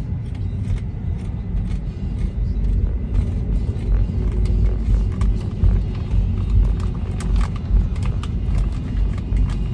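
Road noise inside a moving car: a steady low rumble from the tyres and body, with a scatter of small clicks and ticks.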